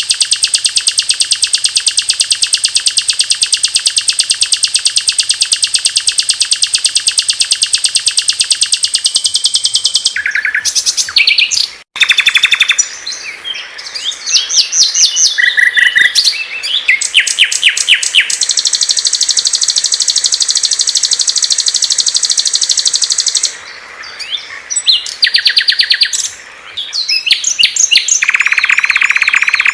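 Songs of small songbirds, spliced one after another. A long, very rapid, high trill runs for about ten seconds and cuts out abruptly shortly after. Varied short chirps and whistles follow, then another long high trill partway through and a lower trill near the end.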